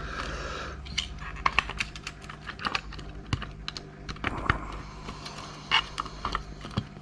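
Irregular small clicks, taps and light knocks of hand tools against metal parts as an old hard disk drive is taken apart, a few of them sharper than the rest.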